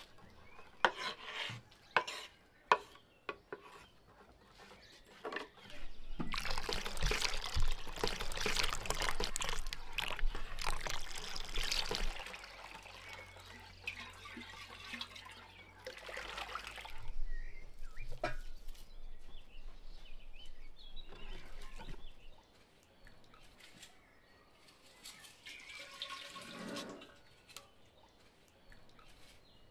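A few sharp knocks of kitchen utensils, then milky liquid poured from a glass jar into batter in an enamel bowl for several seconds while a wire whisk stirs it, with shorter pours later.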